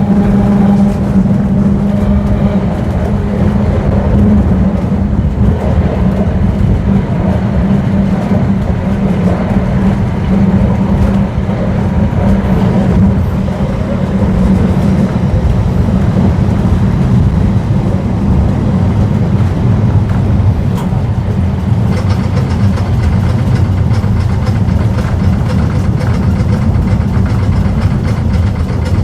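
Vintage tram running along its track, a steady loud rumble of wheels and motor. A faint high hiss joins in near the end.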